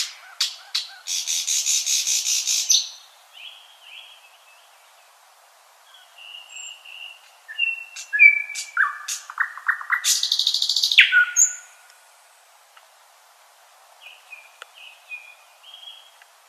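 Nightingale singing in separate phrases of sharp whistled notes and rapid buzzing rattles, with short pauses between phrases. The loudest rattles come near the start and about ten seconds in.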